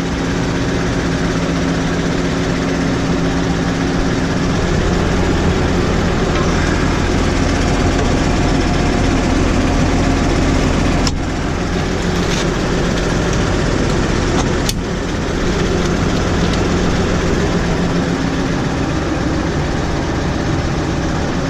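New Holland tractor engine running steadily. Its note grows deeper and heavier from about four seconds in until near the end. Two sharp clicks come near the middle.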